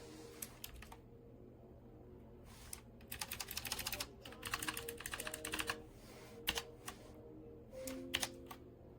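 Keys of a typewriter-style mechanical keyboard clicking: a few single keystrokes, then two runs of rapid typing about three to six seconds in, then a few more single keypresses near the end. Background music runs underneath.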